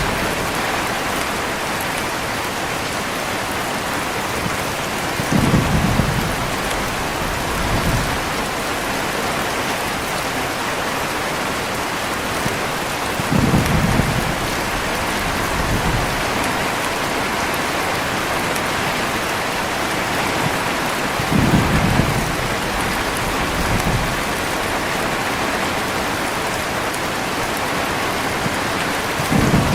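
Heavy rain falling steadily, with short, low rolls of thunder about every eight seconds, each followed by a weaker rumble a couple of seconds later.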